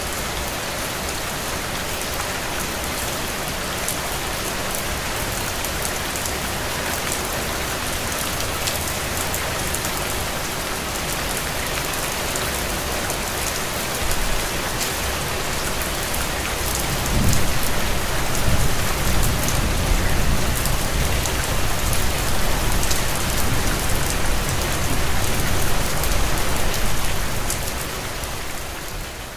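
Steady rain on a window. About halfway through, a low rumble rises beneath it, lasts about ten seconds and eases off near the end.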